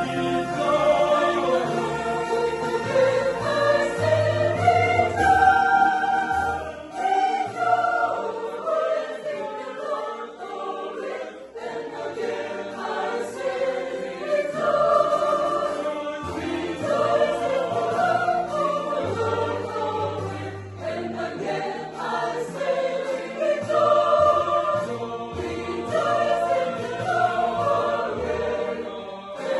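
Choir singing a sacred song in several harmonised parts, without pause.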